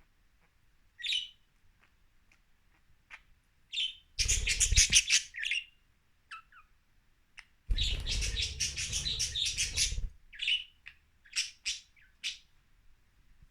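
Budgerigars chirping: single short calls, then two spells of dense, fast chatter, one about four seconds in and a longer one of about two seconds near the eight-second mark, followed by a few more short chirps.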